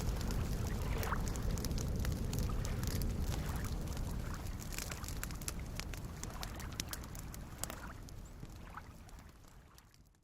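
Campfire crackling with frequent sharp pops over soft lake waves lapping at the shore, the whole mix fading out over the last several seconds.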